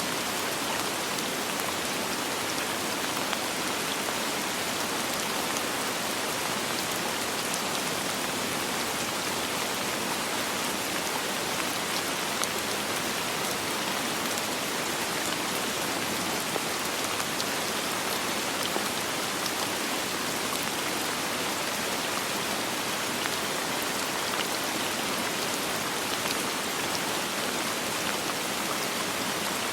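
Steady, even rain falling, with fine individual drop patters, and no thunder.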